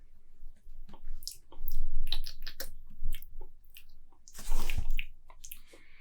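Mouth sounds of someone tasting beer: sipping, swishing and swallowing, with small wet clicks, louder about two seconds in and again near five seconds.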